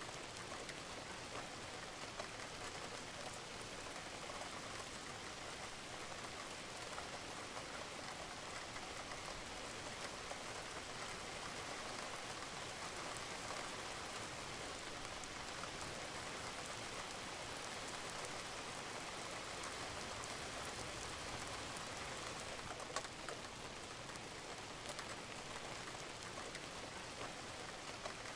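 Steady rain falling on a roof, a dense even patter with scattered drips and one sharper drop about 23 seconds in.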